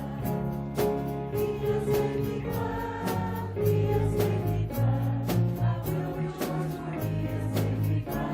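A church choir and congregation singing a gospel hymn with instrumental accompaniment and a steady beat.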